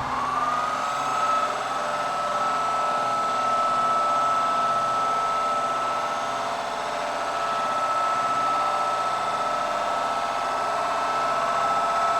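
Electric motor of floor-refinishing equipment starting up, its high whine rising briefly and then running steadily.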